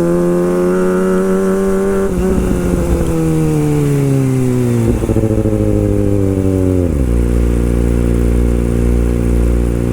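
Kawasaki Ninja ZX25R's 250 cc inline-four engine running at high revs that slowly fall away, then drop quickly to a steady idle about seven seconds in.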